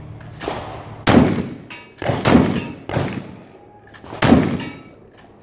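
A series of sharp bangs or thuds, four loud ones roughly a second apart after a softer one, each ringing out for about half a second.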